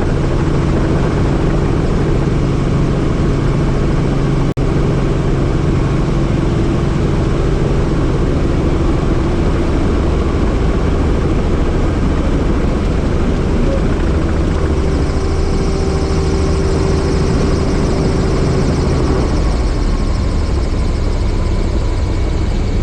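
Helicopter engine and rotor noise in flight, loud and steady, with a brief dropout about four and a half seconds in.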